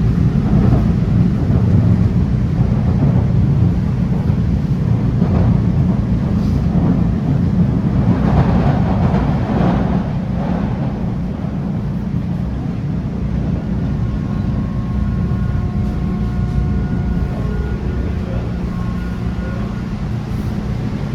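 MBTA Red Line subway car running between stations, heard from inside: a steady, loud low rumble of wheels on rails. A rushing swell comes about eight seconds in, and faint steady motor whine tones come through in the second half.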